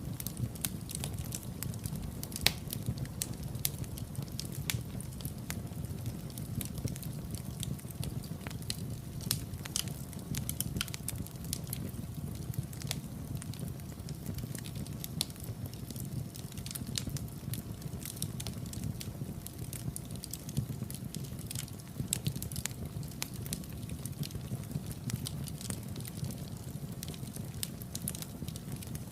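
Wood fire in a fireplace crackling: many sharp pops and snaps scattered irregularly over a steady low rumble of the flames, one louder pop about two and a half seconds in.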